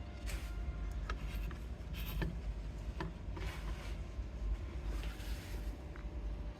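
Scattered light clicks and a few short scraping sounds, typical of tools and small metal parts being handled, over a low steady rumble.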